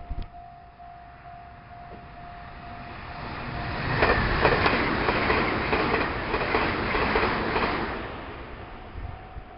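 Meitetsu electric train passing at speed, its wheels clattering over the rail joints. The sound builds about three seconds in, stays loud for about four seconds and fades near the end.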